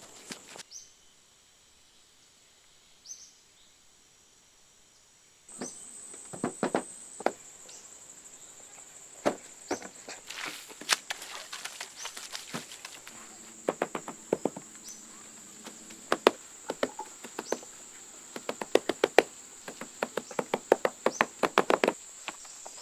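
Sharp knocks and chopping strikes, as of a hand tool hitting wood, sparse at first and coming several a second near the end, over a steady high-pitched insect drone.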